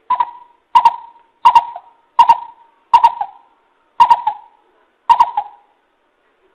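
Coucal lure call: a series of seven short hoots, about one every three-quarters of a second, each starting with a sharp click.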